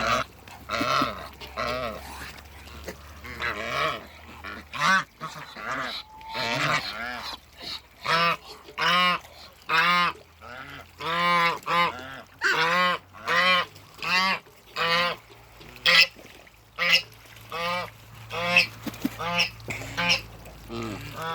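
Farmyard waterfowl honking loudly and repeatedly, a rapid run of short goose-like calls, about two a second through most of the stretch.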